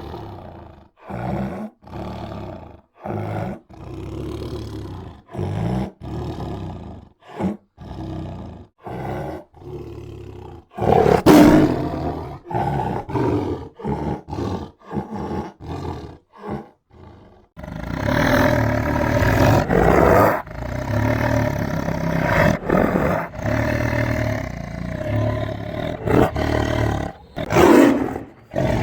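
Tiger roaring: a string of short roars with brief gaps between them, then, from a little past halfway, roaring that runs on without a break.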